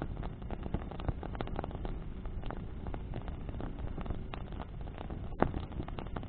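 Bonfire of burning branches crackling, with many small pops and one sharper pop about five seconds in, over a steady low rumble.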